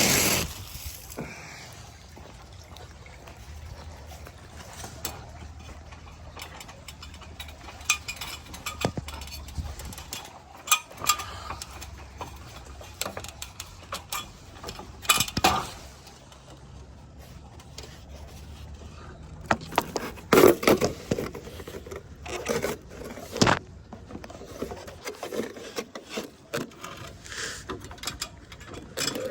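Scattered, irregular scrapes and knocks of asphalt shingles and a shingle bundle being handled and set down on a roof, with a low steady rumble beneath.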